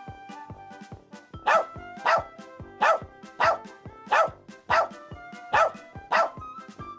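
Dog barking eight times in a steady series, about one bark every 0.6 seconds, starting about a second and a half in, over light background music.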